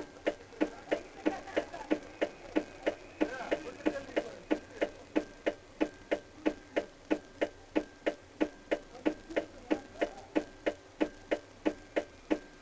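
Steady, even ticking, about three ticks a second.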